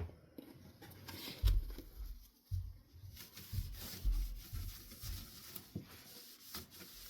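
A cleaning wipe rubbing over a cane ceiling-fan blade in irregular strokes, with a few dull bumps as the blade is handled.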